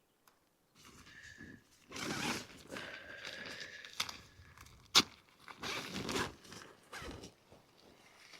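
Nylon tent rainfly rustling and crinkling in irregular bursts as it is handled and tied down, with a sharp click about four seconds in and a louder snap about five seconds in.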